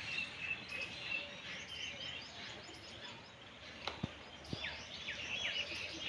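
Small birds chirping and twittering, with a run of quick falling chirps about two-thirds of the way through. Two short sharp clicks sound a little before that.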